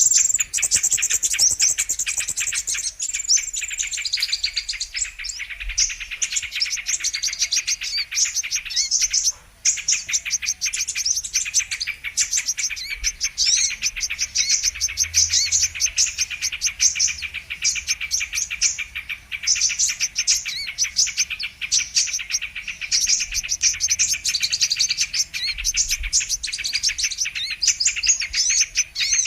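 Brown-throated sunbird (kolibri kelapa) calling: a dense, unbroken stream of rapid high chirps and twitters, with one brief break about nine seconds in. This is a looped lure recording used to call in wild sunbirds for trapping.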